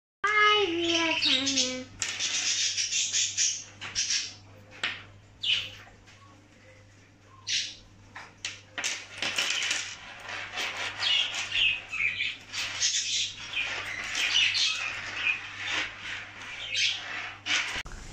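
Birds chirping and calling in many short, high calls, opened by one longer call that falls in pitch, over a faint steady hum.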